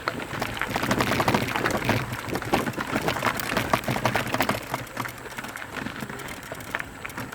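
Mountain bike rolling down a rough trail: tyres crunching over loose stones and gravel with a dense clatter of rattling clicks, busiest for the first few seconds and easing off after about four and a half seconds.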